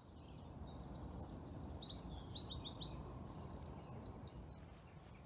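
A small songbird sings one fast song of high, rapidly repeated notes that shifts pitch in several runs, lasting about four seconds.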